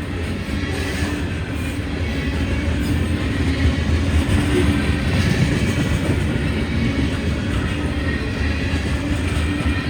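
A train rolling past, a continuous rumble of wheels on rail with a steady low hum underneath that grows slightly louder about four seconds in.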